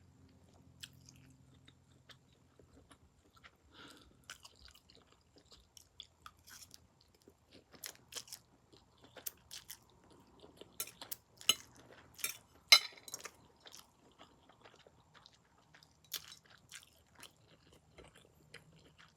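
Close-miked mouth sounds of someone chewing noodles: irregular wet clicks and smacks, loudest and most frequent about two-thirds of the way through.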